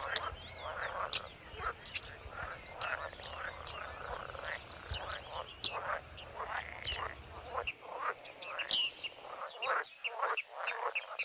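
A dense chorus of many birds calling together, an overlapping chatter of short chirps and calls.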